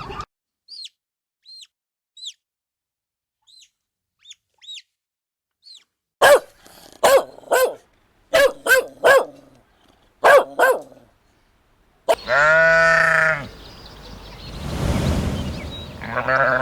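A series of animal calls: faint high chirps over the first few seconds, then a run of short, sharp pitched calls, then a long pitched call about twelve seconds in, followed by a stretch of noise and another call near the end.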